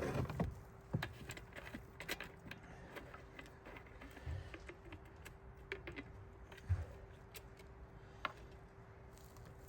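Scattered light clicks and taps of plastic parts being handled while getting the chainsaw's chain-oil filler cap and oil bottle ready, with a couple of soft knocks, over a faint steady hum.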